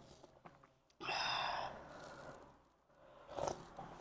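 A short, breathy mouth sound from someone eating, about a second in, with a faint whistle in it, followed by a softer one later.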